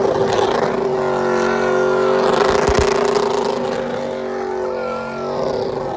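A vehicle engine held at high revs, making a steady droning tone for several seconds that fades somewhat near the end.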